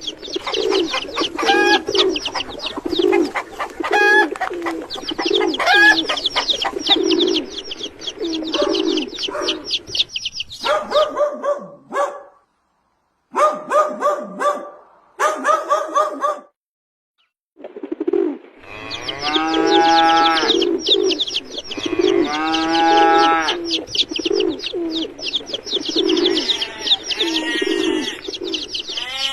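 Farmyard animal and bird calls: dense high chirping over repeated low cooing-like calls, with two drawn-out calls in the second half. The sound cuts out completely twice near the middle.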